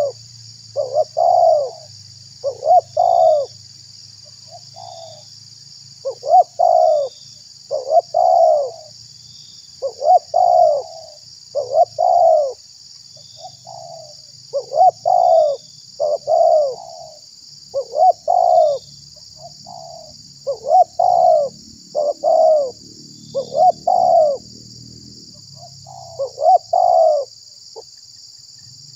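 Spotted dove (tekukur) cooing over and over in short phrases of two or three arched coos, with brief gaps between phrases. A steady high hiss runs underneath.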